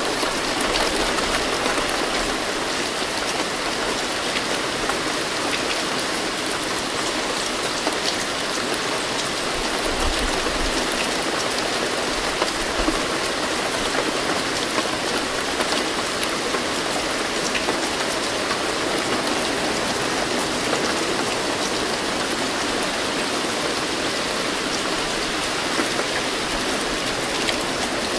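Steady heavy rain falling, with scattered sharp ticks of single drops through the even hiss.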